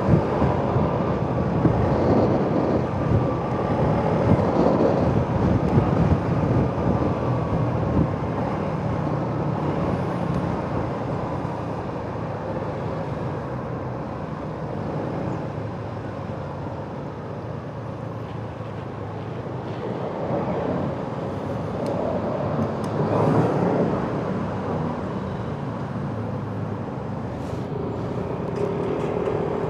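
Yamaha X-Max scooter engine running while riding, mixed with steady wind and road noise on the rider's microphone. It eases off through the middle and picks up again about two-thirds in.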